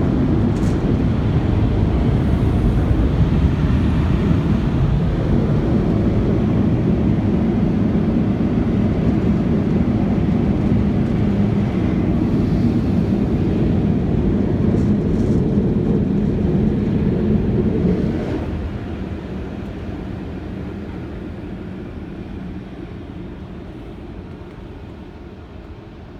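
Automatic car wash machinery running with a steady, low, muffled noise, as heard from inside the car. About two-thirds of the way through it drops sharply, then fades away gradually.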